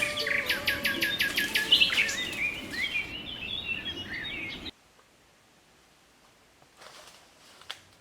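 Birds chirping and twittering in quick, repeated calls that cut off abruptly a little past halfway, followed by near quiet with a few faint taps.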